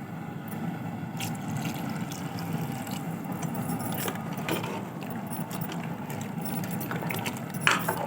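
Metal clinks and scrapes of a spoon or ladle in a pot of chicken sambar being stirred, over a steady low rush, with one sharper clink near the end.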